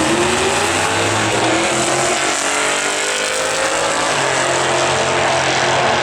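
A twin-turbo 2002 Camaro and a 2002 Pontiac Trans Am racing down a drag strip, their engines running hard with the pitch rising as they accelerate; a new, lower engine note sets in about four seconds in.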